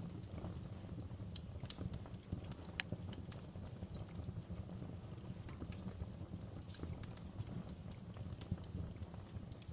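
Outdoor wood fire crackling: irregular sharp pops and snaps over a steady low rumble.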